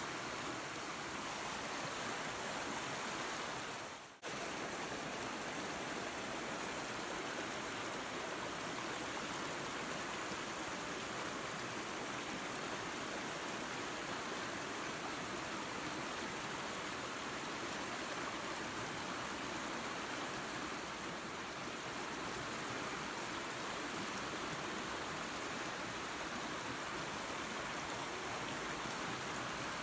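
Waterfall and creek water running in a steady rush, with one brief dip in the sound about four seconds in.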